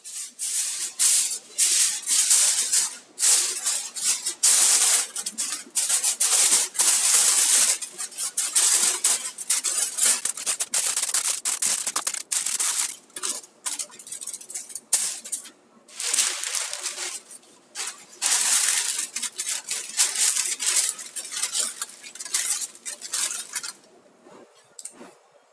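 Kitchen food-preparation noise: irregular stretches of hissing, scraping sound from food being stirred or mixed in a pan or bowl, with short pauses around a quarter and two thirds of the way through.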